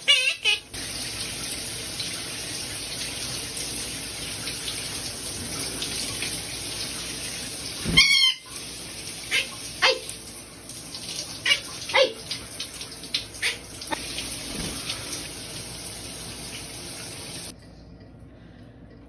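Water running steadily from a tap, with a pet bird calling over it: a quick run of chirps about halfway through, then several short chirps and whistles. It begins right after a bird's repeated beeps and stops abruptly near the end.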